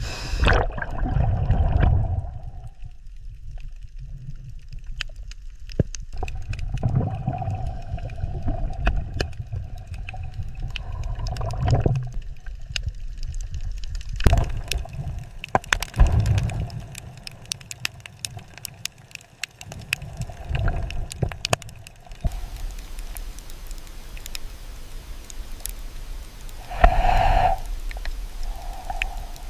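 Underwater water sounds: irregular swells of gurgling and low rumbling every few seconds, with scattered sharp clicks.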